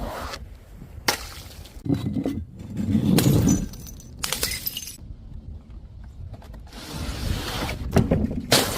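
Glass bottles shattering one after another: several separate crashes of breaking glass, with the tinkle of shards after some of them.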